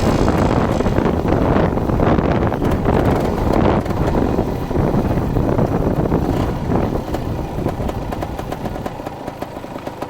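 Dirt bike engine running loudly, then dropping about eight seconds in to a quieter, pulsing idle that sounds uneven: the bike is idling badly.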